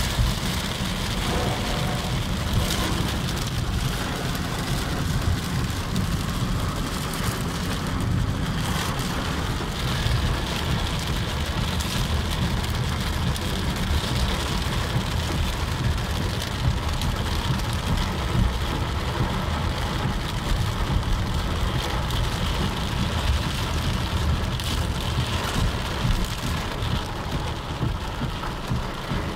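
Heavy rain falling on a car's roof and windscreen, heard from inside the car as a steady, dense hiss. Under it runs a continuous low rumble of the car and the wet road.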